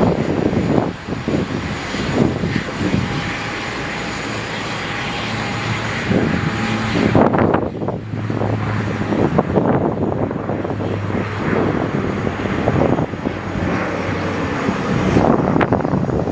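Airliner engines running with a steady hum, under repeated gusts of wind buffeting the microphone.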